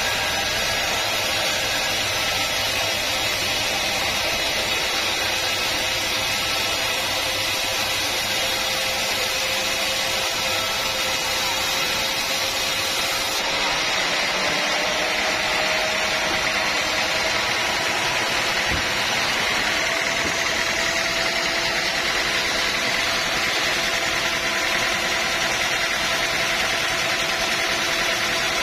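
Sawmill saw and its drive motor running steadily, a continuous mechanical din with a faint whine. The sound shifts abruptly about halfway through, and the whine then creeps slightly higher.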